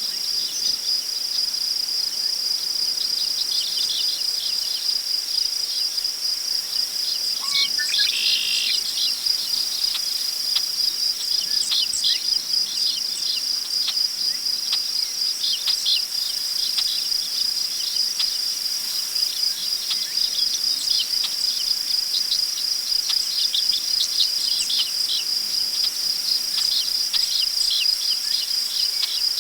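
Crickets trilling in one continuous high, steady drone, with birds chirping over it in many short calls and one longer call about eight seconds in.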